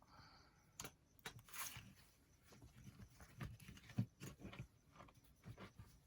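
Quiet handling sounds of paper and craft materials: soft rustling with scattered light taps and clicks, the sharpest knock about four seconds in.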